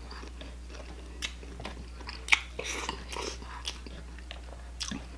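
A man chewing food close to the microphone, his mouth noises coming as irregular short clicks, the loudest about two and a half seconds in.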